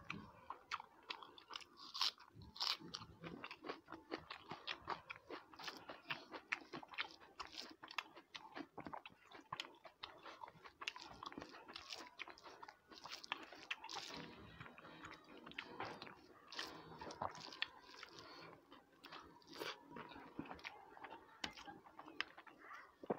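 Close-miked eating sounds of a person chewing and biting a meal of rice and meat curry eaten by hand. There are many small irregular clicks throughout.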